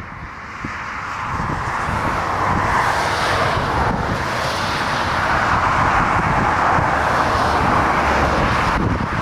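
Jet airliner's engines on a landing approach, a broad jet noise that grows louder over the first few seconds as the aircraft nears, then holds, with wind gusting on the microphone underneath.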